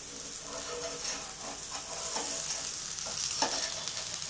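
Rice-flour and egg batter pancake frying in oil on a flat griddle pan, sizzling steadily, with a metal spatula scraping and tapping against the pan a few times.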